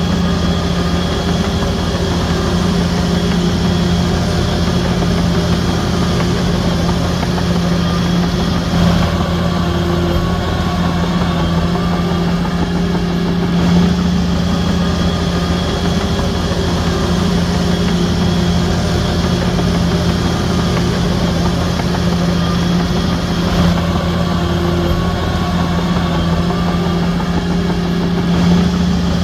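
Heavy diesel engine of a Shantui DH17C3 bulldozer running steadily, a deep even hum with only small shifts in tone.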